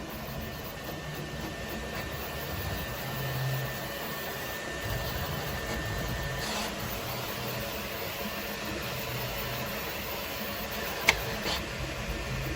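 A steady mechanical whir with a low, shifting hum, like a machine's fans running. A thin steady tone stops about six and a half seconds in, and there is a sharp click about eleven seconds in with a softer one just after.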